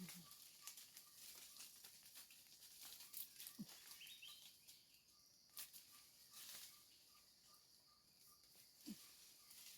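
Quiet forest ambience: a faint short call repeats steadily two or three times a second, with a few faint chirps and light ticks.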